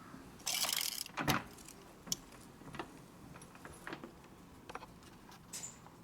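Small metal parts being handled: scattered light clicks and knocks, with a short rattle about half a second in.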